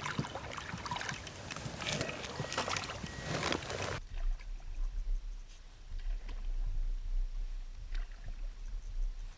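Canoe on the water: a dense splashing with sharp paddle knocks, which cuts off suddenly about four seconds in, leaving a low steady rumble with a few faint knocks.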